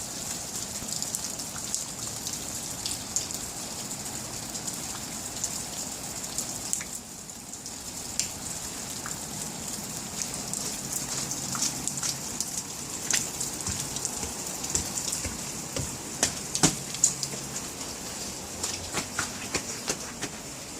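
Rain falling, with drops pattering and ticking on nearby surfaces. A few louder, sharper taps come about three-quarters of the way through.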